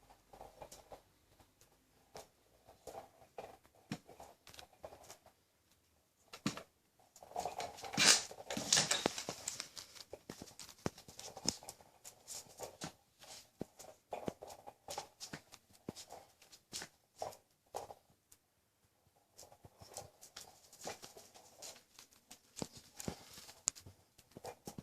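Spitz puppy playing with a ball: a run of quick light taps and scuffles, busiest and loudest around eight to ten seconds in.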